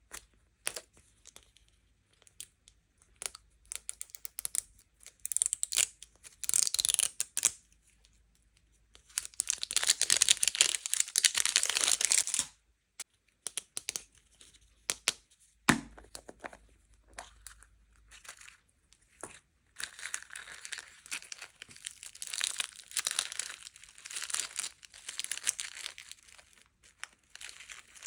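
Packaging being torn open and crinkled by hand during a sweets unboxing. Scattered clicks and short rustles are followed by one long tear about a third of the way in. Steady crinkling fills the last third.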